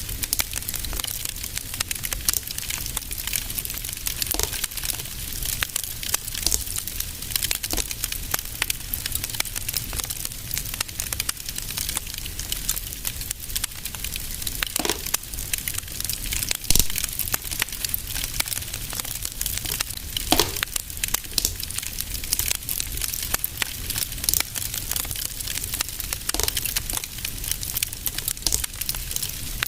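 Fire in a fireplace crackling steadily, with a dense patter of small snaps and a few louder pops every few seconds.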